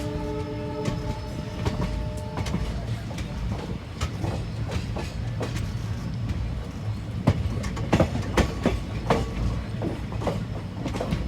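Passenger train coaches rolling, with a steady low rumble and irregular clanks and clicks of wheels over rail joints; the knocks come thickest and loudest about seven to nine seconds in. A sustained multi-note tone sounds over the first two seconds or so.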